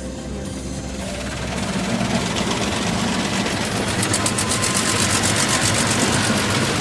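Car wash machinery running over an idling car engine: a rushing noise that grows louder from about a second and a half in, with a fast, even pulsing from about four seconds in.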